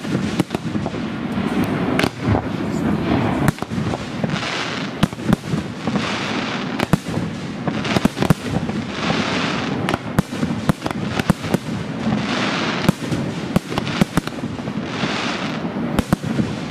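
Aerial fireworks shells bursting in quick succession, with many sharp bangs over a continuous low rumble. Every few seconds comes a stretch of crackling hiss from glittering crackle stars.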